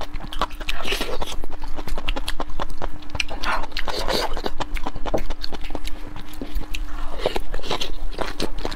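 Close-miked chewing and lip-smacking on braised meat: a dense, irregular run of wet mouth clicks and bites, with a faint steady hum underneath.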